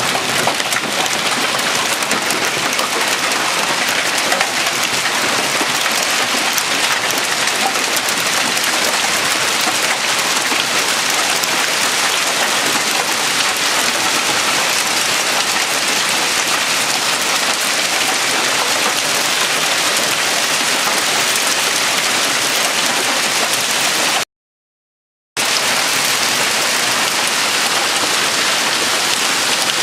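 Quarter-sized hail and rain pelting down in a dense, steady clatter of many small impacts. The sound drops out completely for about a second near the end.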